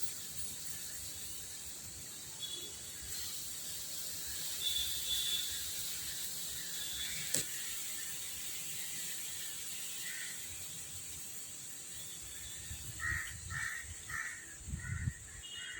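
Crows cawing, a run of about five short caws near the end, over a steady high hiss of outdoor background, with faint short chirps and a single sharp click about seven seconds in.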